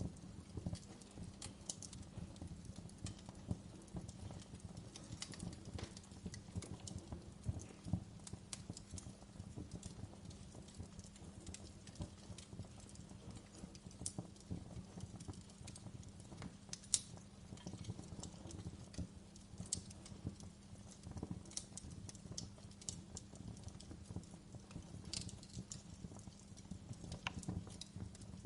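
Wood fire crackling in a fireplace: burning logs giving off irregular sharp pops and snaps over a low, steady rumble, with one louder pop about halfway through.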